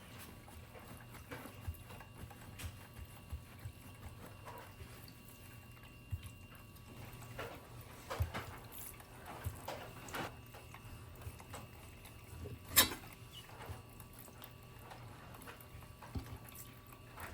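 Quiet room with scattered light clicks and knocks of objects being handled, and one sharper click about 13 seconds in, over a faint steady hum.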